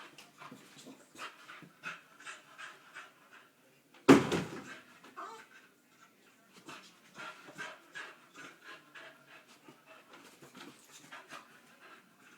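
Boxer dog panting and huffing in quick breathy bursts, two to three a second. About four seconds in there is one loud, sudden sound.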